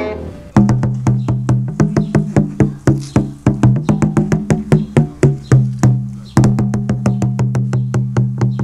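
Pitched drums struck in a quick, even rhythm, each stroke sharp with a low ringing tone. The playing starts about half a second in and pauses briefly near six seconds before going on.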